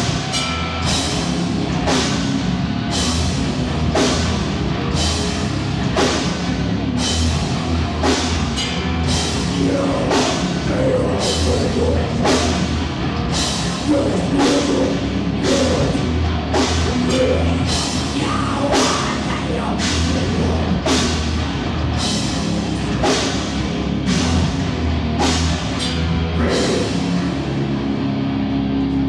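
Live heavy rock band playing loud, with pounding drums and crashing cymbals over heavy bass. The drum hits stop near the end, leaving a held note ringing.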